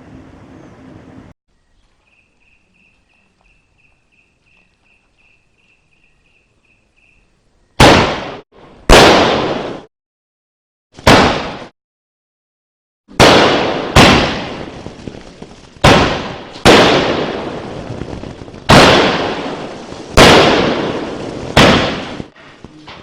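Multi-colour crackling sky shot firing: after several quiet seconds, about ten loud bangs come at irregular intervals of one to two seconds, each trailing off in a fading crackle.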